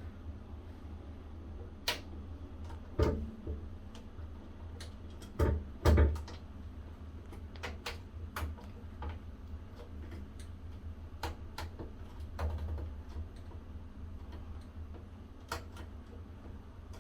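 Scattered clicks, taps and light knocks of a chrome shower head being handled and screwed onto its shower arm by hand, with two louder knocks about three and six seconds in.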